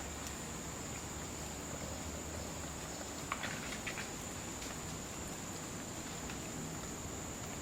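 Steady high-pitched drone of rainforest insects, unbroken throughout, with a few brief clicks or crackles a little past the middle.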